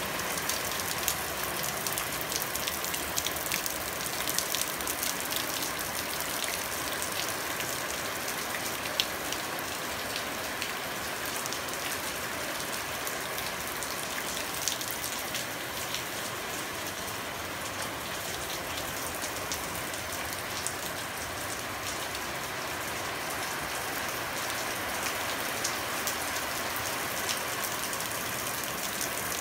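Steady rain falling on wet pavement and standing water, with many small, scattered drop hits over the hiss.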